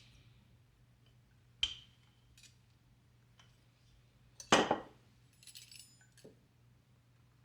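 Hard objects clinking and being set down: a light ringing clink, a louder knock about three seconds later, then a brief jingle.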